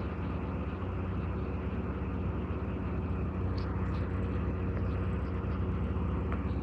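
Fiat Uno engine running steadily with a low, even rumble, the 'roncando' noise whose cause the owner is questioning.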